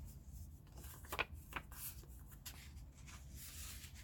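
Paper pages of a handmade junk journal rustling as they are handled and turned, with a couple of sharp ticks a little after a second in.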